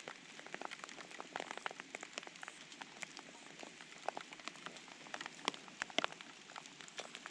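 Light, irregular patter of raindrops ticking on a surface, several sharp drops a second over a soft steady hiss.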